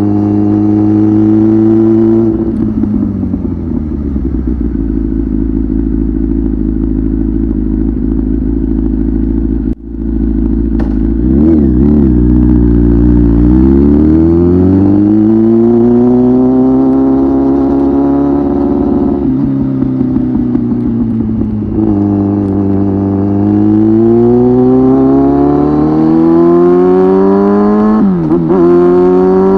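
Kawasaki ZX-10R inline-four superbike engine breathing through an aftermarket titanium muffler while riding. The note drops off the throttle, then climbs in long rising sweeps several times, with a quick dip and recovery near the end.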